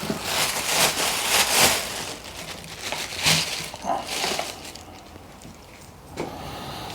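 Rustling and scraping from electrical wires being handled, in several short bursts, busiest in the first two seconds.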